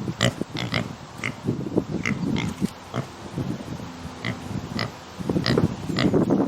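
Pigs grunting over and over in short, low calls, with brief high-pitched squeaks mixed in several times.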